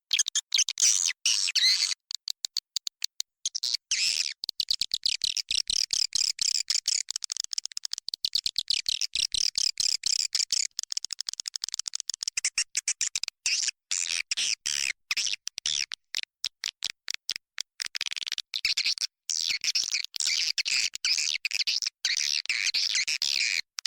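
Swiftlets twittering in dense, rapid high-pitched chirps with many brief gaps. This is a swiftlet-house recording played as a lure call to draw swiftlets in to roost and nest.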